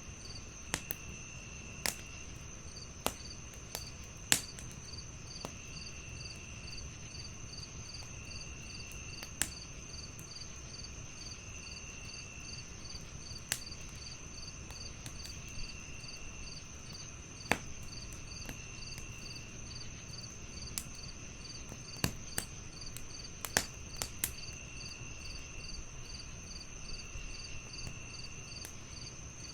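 Crickets chirping in a steady chorus: one gives fast, evenly spaced chirps and another trills in short bursts every couple of seconds. Under them a wood fire crackles, with sharp pops every few seconds that are the loudest sounds.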